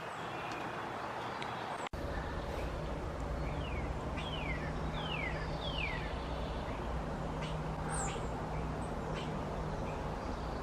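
A songbird calling outdoors: four clear whistled notes, each sliding downward, about four seconds in, then a few short high chirps near the end. Behind it is a steady wash of outdoor noise with a low hum.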